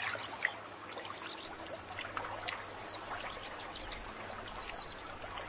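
Water trickling and lapping, with a few short, high, falling bird calls scattered through.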